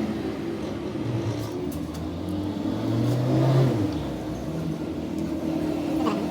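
A motor running steadily, its pitch rising for about a second around the middle, with a few light clicks.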